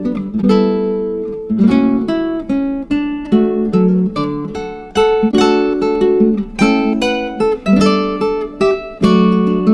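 Background music: an acoustic guitar picking a melody, a steady run of plucked notes, each ringing and fading.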